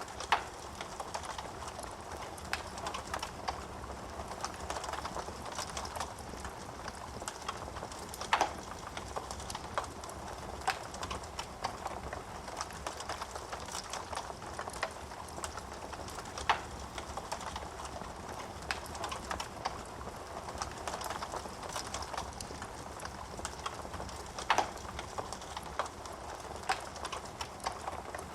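Wood fire burning in a fireplace: a steady low hiss with irregular crackling and a few sharper pops of burning logs every few seconds.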